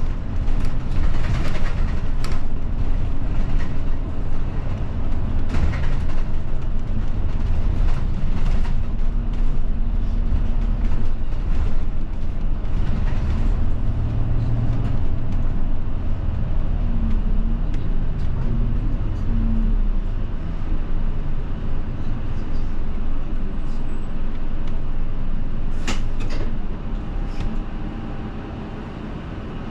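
Interior of a route bus in motion: steady engine and road rumble with scattered short rattles and clicks from the cabin, a few sharp clicks near the end as the noise eases and gets quieter.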